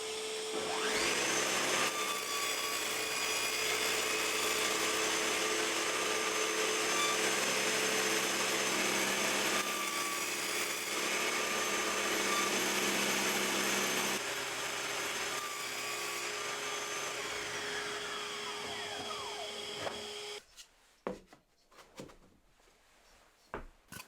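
Table saw running with a 6 mm flat-tooth grooving blade set low, nibbling shallow grooves into 18 mm MDF: a steady motor-and-blade whine. About fourteen seconds in it gets quieter, then its pitch falls as the blade winds down. It stops about twenty seconds in, followed by a few light knocks.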